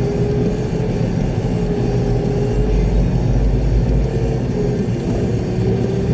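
Concrete mixer truck's diesel engine and road rumble heard from inside the cab while driving, with a steady whine that drifts slightly in pitch.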